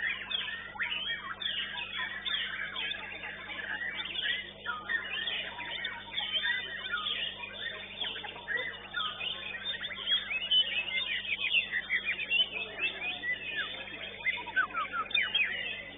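White-rumped shamas (murai batu) singing at once: a dense stream of quick overlapping whistles, trills and chirps.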